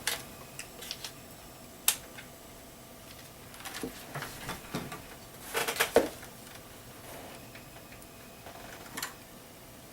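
Scattered small clicks and light knocks of hands handling multimeter test leads on a large filter capacitor, with a sharp click about two seconds in and a cluster of clicks and knocks just before the six-second mark.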